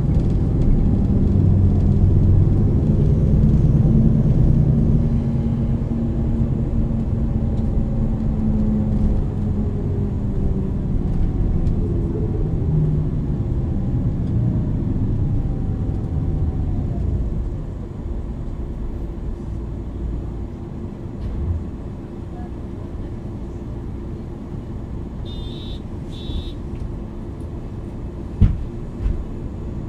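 MAN NL 323 city bus heard from inside, its diesel engine and ZF Ecolife automatic gearbox running under load, with the engine note gliding up and down through gear changes. It eases off and grows quieter from about halfway through. A short high chirp comes near the end, followed by a sharp knock.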